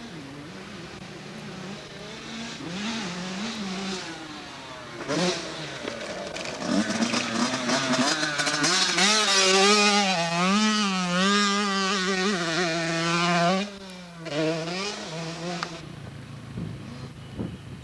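Motocross dirt bike engine running around the track, its pitch rising and falling again and again as the throttle is worked. It gets loud as the bike passes close about eight seconds in, then drops away after about thirteen seconds.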